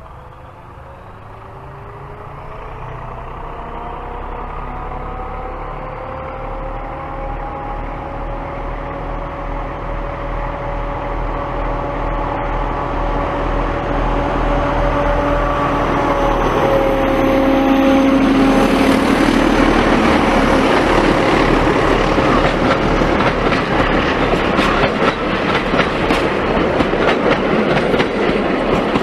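A train approaching and passing, its engine note growing steadily louder with several steady tones, then wheels clattering over rail joints near the end.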